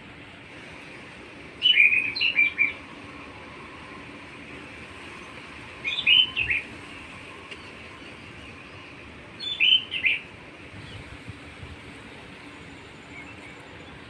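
Songbird chirping in three short phrases of quick high notes, about four seconds apart, over a steady background hiss.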